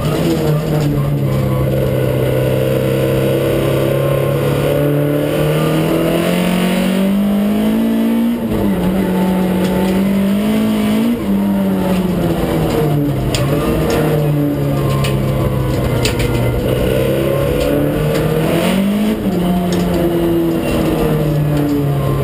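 Ford Escort RS2000 Mk6's 16-valve four-cylinder engine at racing speed, heard from inside the cabin. The revs climb and then drop sharply several times as the driver shifts gear and lifts for corners.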